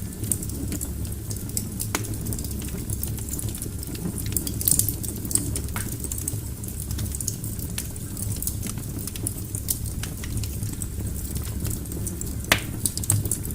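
Wood fire burning in a fireplace: a steady low rumble of flames with irregular crackles and small pops from the logs, one louder pop near the end.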